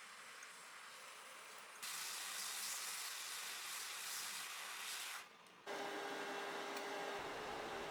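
Hot air rework station blowing, a faint steady airy hiss. It steps louder about two seconds in, drops out briefly near the end, then returns with a faint steady hum.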